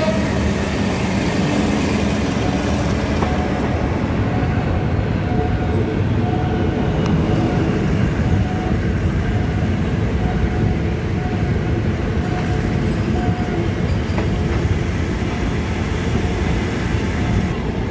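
Diesel-hauled passenger train running, heard from inside a coach at an open window: a steady rumble of the wheels on the rails. A faint tone repeats about once a second through the middle.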